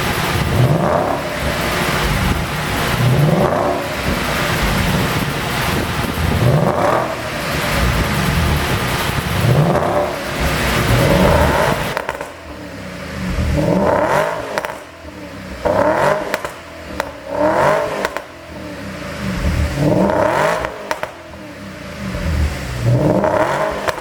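2011 Porsche Panamera 4S's 4.8-litre V8 revved again and again, each rev rising and falling every two to three seconds. From about halfway on, crackles and pops from the exhaust follow the revs as they drop: the overrun pops of a pop-and-crackle engine tune.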